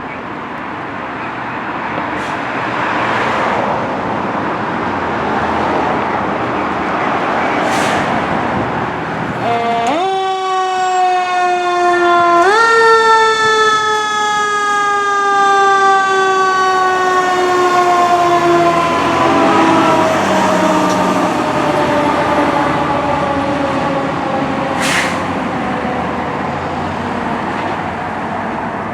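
Fire engine running, then about ten seconds in its mechanical siren spins up sharply, gets a second push a few seconds later, and winds slowly down in pitch through the rest.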